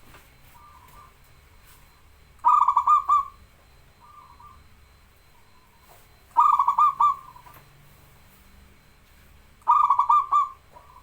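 Zebra dove (perkutut) cooing: three song phrases a few seconds apart, each a quick run of rolling coo notes followed by a softer drawn-out note. Fainter coos fall between the phrases.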